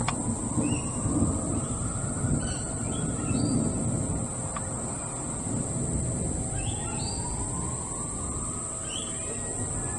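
Steady high-pitched drone of insects, crickets or cicadas, with scattered short bird chirps over it. A low outdoor rumble swells and fades twice underneath.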